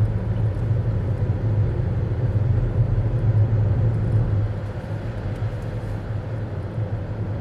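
Car driving, heard from inside the cabin: a steady low engine and road rumble that gets somewhat quieter about halfway through.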